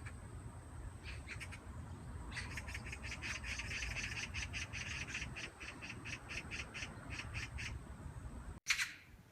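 Magpie chattering: a short burst of rapid harsh notes about a second in, then a long rattling run of about four notes a second. Near the end, after a cut, one louder harsh call.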